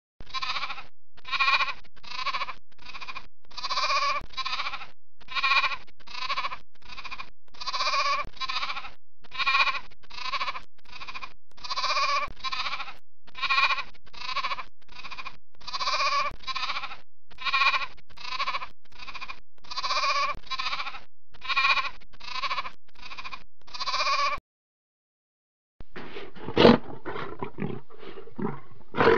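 A lamb bleating over and over in short calls, roughly one a second. Near the end, after a brief pause, a lion starts roaring and growling, louder than the bleats.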